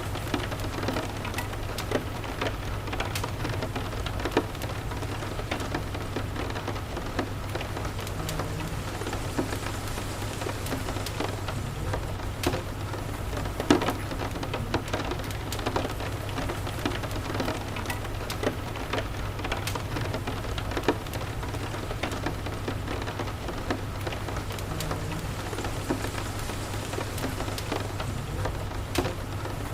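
Steady rain with a crackling wood fire: short sharp crackles pop throughout, one louder about 14 seconds in, over a low steady rumble.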